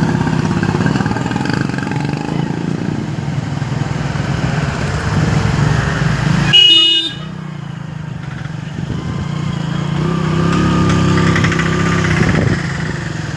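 Motor vehicle engine running steadily. About six and a half seconds in, a short loud high-pitched blast cuts across it and the sound drops off suddenly; the engine then picks up again.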